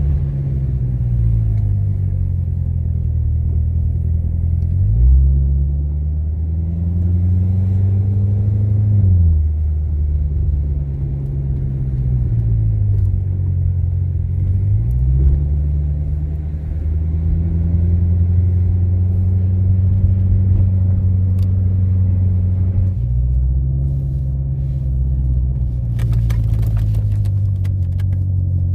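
Corvette V8 engine pulling through the gears. The low rumble climbs in pitch and drops sharply at upshifts about five and nine seconds in. It falls away as the car slows, climbs again and settles into a steady cruise, with one more shift down in pitch near the end.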